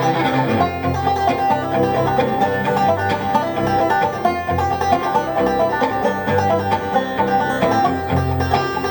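Instrumental break of an acoustic string duo with no singing: strings picked rapidly and steadily throughout.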